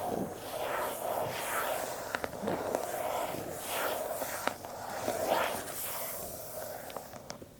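Fingers scraping and rubbing over the cardboard of an Apple product box in repeated swishing strokes, with a few sharp taps; it quiets near the end.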